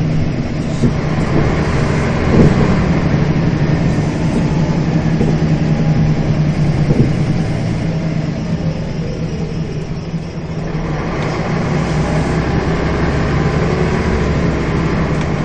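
Scania bus's diesel engine running under way, a steady drone. The engine note falls away about eight seconds in, then picks up again with a deeper drone shortly after ten seconds.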